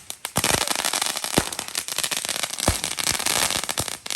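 Fireworks crackling: a dense run of rapid pops and crackles with a few louder bangs among them.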